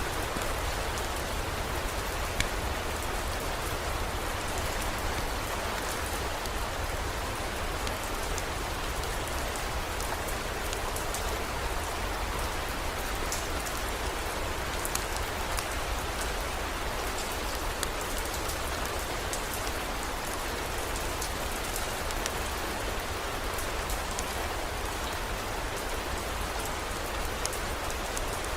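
Steady heavy rain with scattered sharp drip ticks over a constant low rumble.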